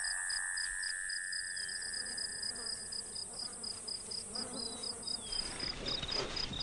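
Insects chirping and buzzing: a steady high-pitched drone that stops about five and a half seconds in, a lower steady drone that fades out about three seconds in, and a fast pulsing chirp that keeps going throughout.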